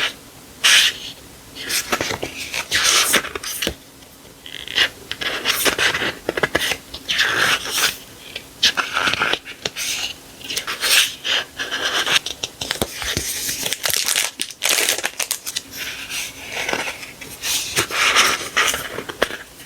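Paper and plastic sticker packaging rustling, crinkling and scraping in irregular strokes as stickers are unpacked and handled, with a few short tearing sounds.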